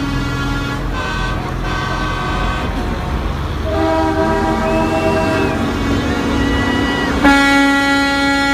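Semi-truck air horns sounding one after another, several horns of different pitch overlapping over a low diesel rumble. About seven seconds in, a louder chord horn with several tones starts and holds.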